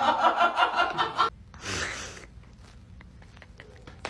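A person laughing in quick pulses, breaking off about a second in, followed by a short breathy intake.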